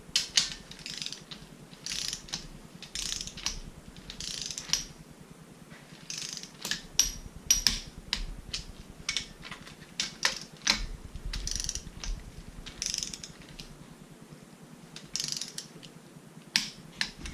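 Hand ratchet wrench ratcheting in short repeated back-strokes while bolts are run down and tightened, with sharp clicks between the strokes.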